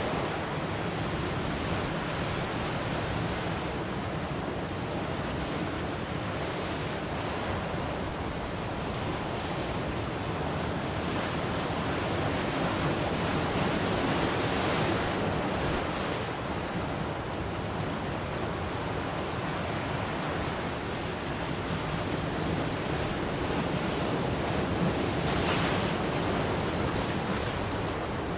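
Ocean waves breaking and washing on the shore in a steady surf, swelling and easing every few seconds, with a brighter hiss of breaking water about halfway through and again near the end.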